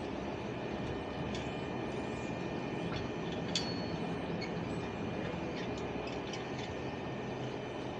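An engine running steadily with a constant low hum, with a few light clicks and knocks over it.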